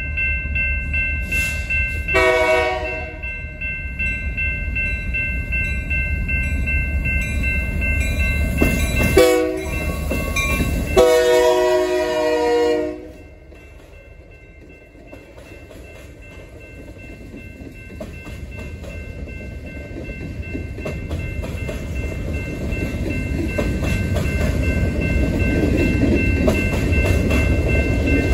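BNSF freight train's diesel locomotive sounding its air horn three times: a short blast about two seconds in, a brief toot around nine seconds, and a long blast from about eleven to thirteen seconds. Then the locomotive passes, and the rumble and clatter of covered hopper cars rolling by grows steadily louder.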